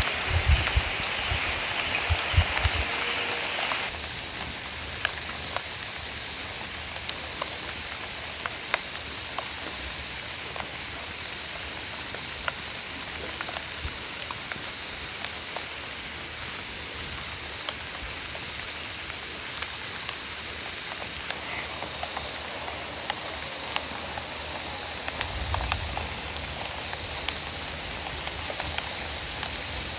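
Light rain at night, a steady hiss with scattered drops pattering on leaves, louder for the first few seconds. From about four seconds in, a steady high-pitched trill of night insects runs under it.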